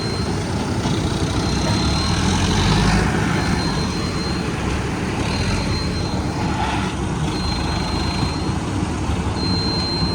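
Tractor diesel engine running steadily, swelling slightly around three seconds in. A thin high tone comes and goes about every two seconds over it.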